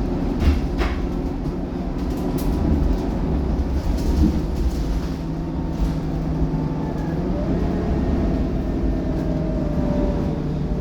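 Scania K230UB city bus running along, its diesel engine humming steadily. There are a few sharp rattles in the first second, and a whine rises in pitch over the second half.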